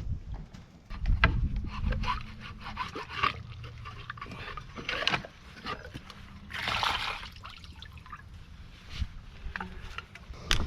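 Irregular clicks, knocks and scrapes of hand tools and metal parts being handled while taking apart a vehicle's radiator and engine plumbing, with a short rushing noise about seven seconds in.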